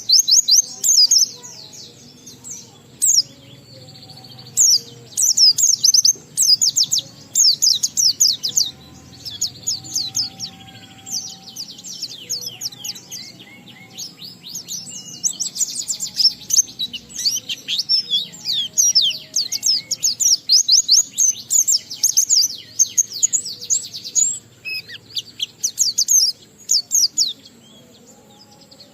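A white-eye (pleci) singing in full song: long, fast twittering runs of rapid high notes that sweep downward, broken by a few brief pauses.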